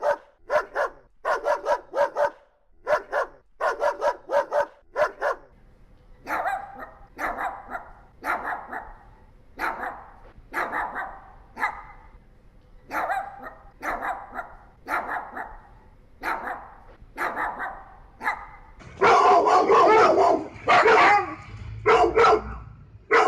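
Dogs barking in a run of separate recordings. First come sharp barks in quick clusters, then quieter barks about once a second over a faint hiss. About 19 seconds in, much louder barking with sliding pitch takes over.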